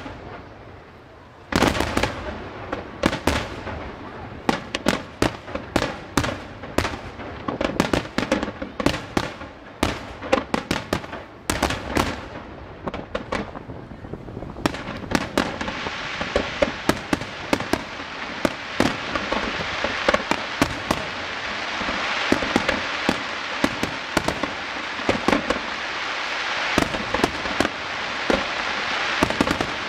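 Aerial firework shells bursting in a rapid series of bangs. After a brief lull at the start, the bangs come thick and fast, and from about halfway a dense, continuous crackling builds up under them.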